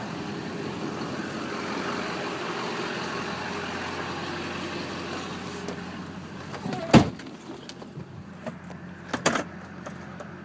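Duramax 6.6-litre V8 turbo-diesel pickup on the move, its engine and road noise heard steadily from inside the cab and easing off after about six seconds. A single sharp thump about seven seconds in is the loudest sound, followed by a couple of lighter knocks.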